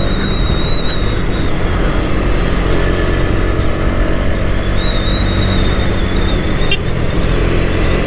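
KTM 250 Duke's single-cylinder engine running steadily while the bike is ridden, along with road noise. A thin high whine comes and goes twice.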